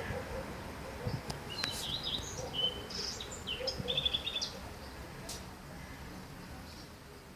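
Songbird singing a short burst of high chirps and trills over steady low background noise, fading out after about four and a half seconds.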